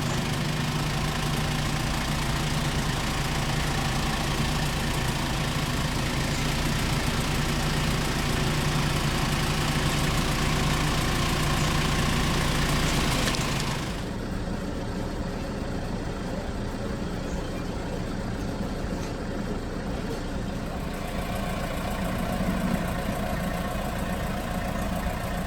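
Off-road vehicle engine running steadily, heard continuously; about fourteen seconds in the sound changes abruptly to a quieter, duller engine drone.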